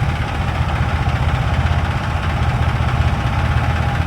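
Tractor's diesel engine running steadily with an even low beat.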